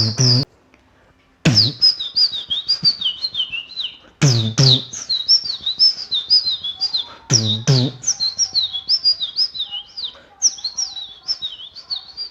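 Mouth mimicry of bird chirping: quick runs of high, falling whistled chirps, set over a few deep beatboxed bass hits. There is a short pause about a second in.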